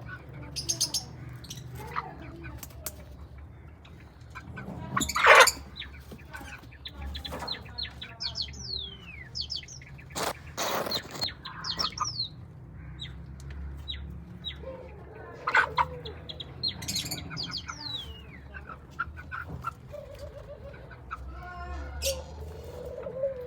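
Birds calling: many quick chirps that sweep down in pitch, among short rustling bursts. The loudest bursts come about five seconds in and again around ten to eleven seconds in.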